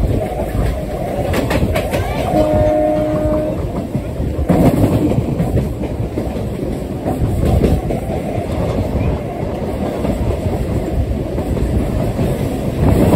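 Electric local train running at speed, heard from an open door: a steady wheel-and-track rumble with wind, and sharp clacks as the wheels pass over rail joints and points. A single horn blast lasting about a second sounds some two seconds in.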